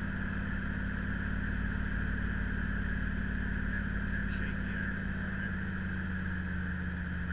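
1962 Corvette's 327 V8 running steadily as the car cruises, heard from the open cockpit with the top down.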